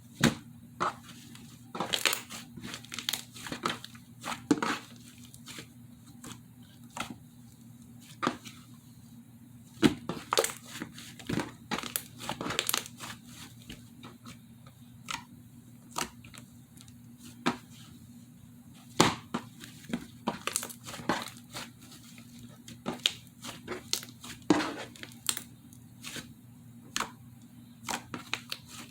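Hands pressing and stretching slime, giving an irregular run of crackling pops and clicks over a faint steady low hum.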